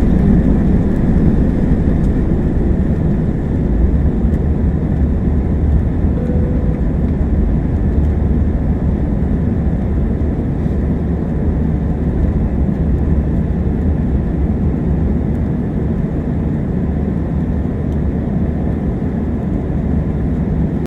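Fixed-wing airplane taking off: a loud, steady low rumble of engines and rushing air that holds evenly throughout.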